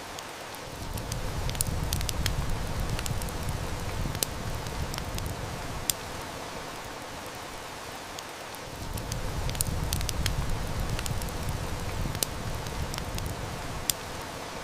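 Steady heavy rain hiss with a wood fire crackling over it, its sharp snaps and pops scattered a second or more apart. Twice a low rumble swells up for about five seconds and fades.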